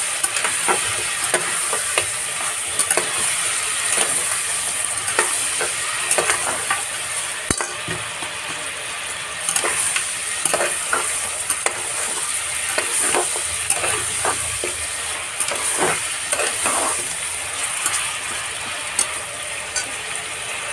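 Mutton pieces and ginger-garlic paste sizzling in hot ghee in an aluminium pressure cooker on high heat, while a slotted metal spatula stirs them and scrapes and clicks against the pot in irregular strokes.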